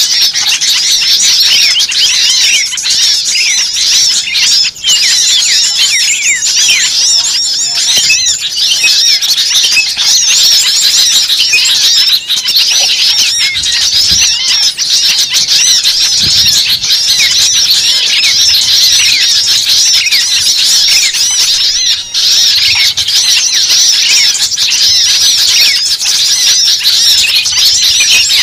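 Bird-lure recording of a noisy mixed flock of small birds: many high chirps and squeaky calls overlapping densely and without a break, the excited 'ribut' chatter used to draw birds in.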